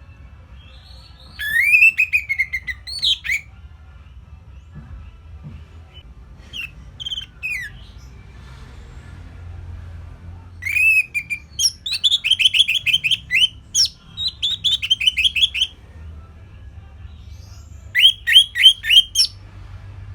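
Orange-headed thrush (anis merah) singing in four separate phrases of whistled notes. The longest phrase, near the middle, breaks into rapid runs of repeated notes, and a short burst of quick repeated notes comes near the end.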